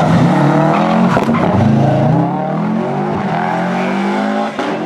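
Rally car engine accelerating hard away from a hairpin, revving up and shifting up through the gears, its pitch climbing and then dropping at each change. A few sharp cracks come through the engine sound.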